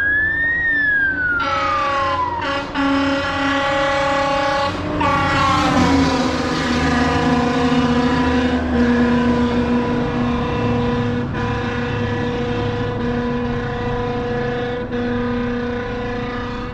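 An emergency vehicle's siren wails once, rising and falling. Then long air-horn blasts sound; their pitch drops about five seconds in as the vehicle passes, and the horn keeps sounding with short breaks.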